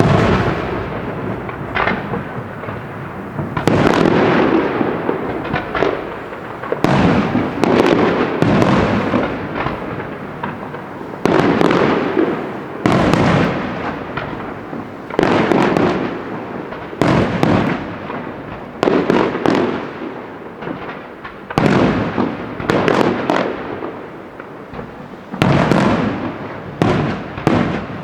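A fireworks display: aerial firework shells bursting one after another, a loud bang every one to two seconds, each fading away in a long rumbling tail.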